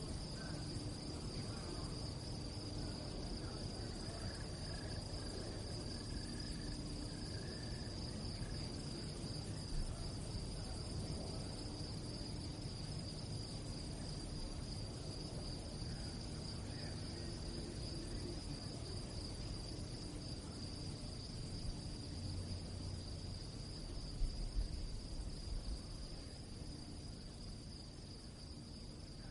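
Crickets chirping in a steady, continuous high-pitched trill over a low background rumble.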